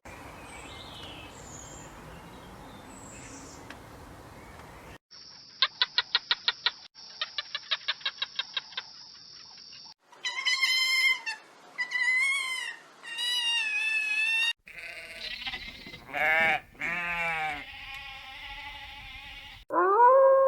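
A run of separate animal-call clips spliced together. A faint background hiss comes first, then two bursts of rapid, evenly spaced clicking, then three wavering bleats and a few sliding, warbling cries.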